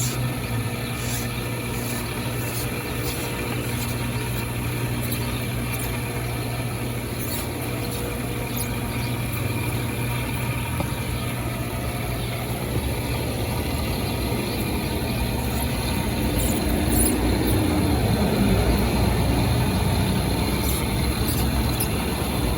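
Steady low motor hum, running evenly and growing a little fuller and louder in the last several seconds.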